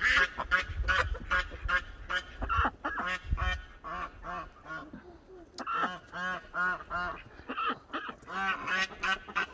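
A flock of ducks and geese honking and quacking, many short calls in quick succession, several a second.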